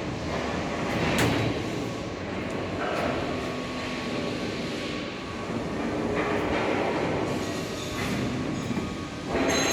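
PET bottle washing line machinery running: a steady mechanical rumble and rattle, with louder clattering surges about a second in, around three seconds in, and near the end.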